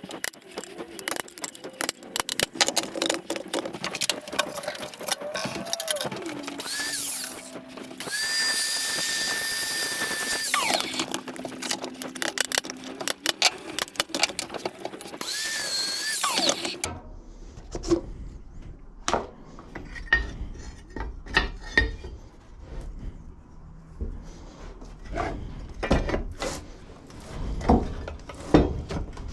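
Power drill whining in a few short runs, each spinning up, holding and winding down, amid rapid clicking and rattling of metal parts. About two-thirds of the way through this gives way to separate knocks and clanks of parts being handled.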